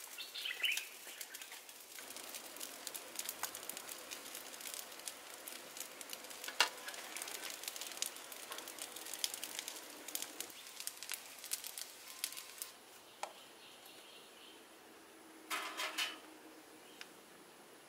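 Fried rice sizzling and crackling in a hot wok, fading out about two-thirds of the way through. Near the end, a wire grill basket clatters on a metal grill.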